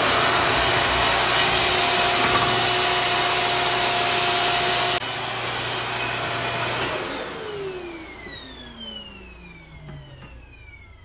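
RevAir reverse-air hair dryer running, a loud steady rush of suction air with a motor whine. It drops to a lower setting about five seconds in. About two seconds later it is switched off, and the motor whine falls in pitch as it spins down and fades.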